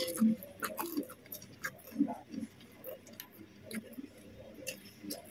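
Close-up eating sounds: chewing with irregular wet mouth clicks and lip smacks, most frequent in the first second and sparse afterwards.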